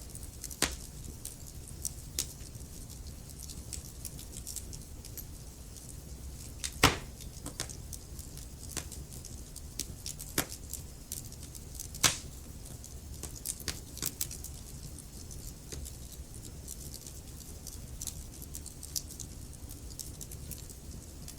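Wood fire in a fireplace crackling: scattered sharp pops and snaps at irregular intervals, two of them much louder, about a third of the way in and just past halfway, over a steady low rumble.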